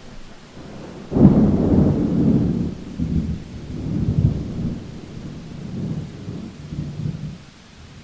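A thunderclap breaks suddenly about a second in and rolls on in several rumbling swells, dying away near the end, over steady rain.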